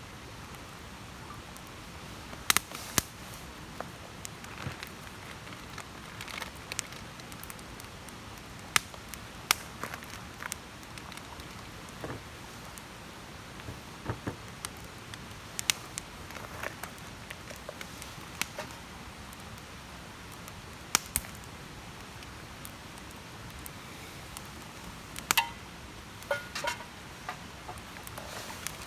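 Wood campfire burning, with a steady hiss and irregular sharp crackles and pops from the burning wood.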